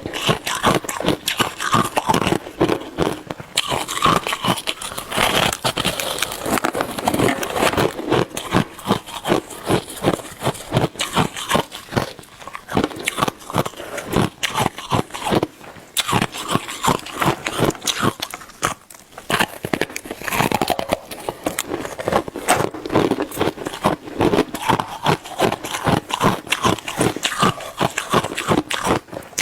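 Shaved ice being bitten and chewed fast: a dense, steady run of crisp crunches, several a second, with two short lulls midway.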